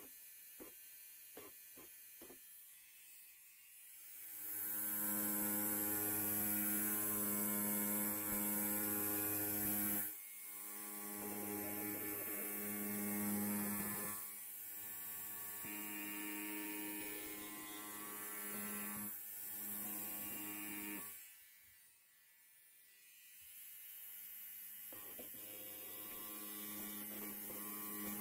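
Electric hair clipper buzzing with a steady low hum. It grows loud about four seconds in, dips briefly twice, fades low for a few seconds a little past twenty seconds in, then comes back. A few small clicks sound in the quieter opening seconds.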